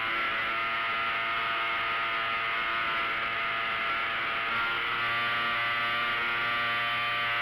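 Engine and propeller of a quarter-scale Hangar 9 Taylorcraft RC airplane running steadily in flight, heard from a camera mounted on the airframe, with wind rushing over the microphone.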